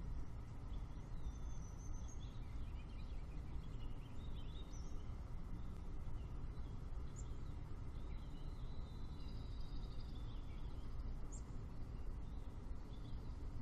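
Wild birds chirping and singing, short high calls scattered throughout and a longer warbling phrase after about eight seconds, over a steady low rumble.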